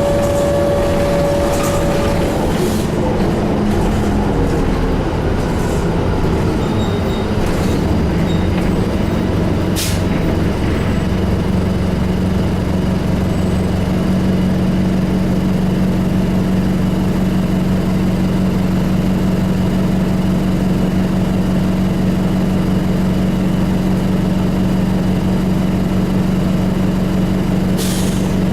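A New Flyer D35LF transit bus's Detroit Diesel Series 50 engine running steadily, heard from inside the bus while riding. A higher steady whine fades out in the first two seconds, and there are a few sharp clicks and rattles, one about ten seconds in and one near the end.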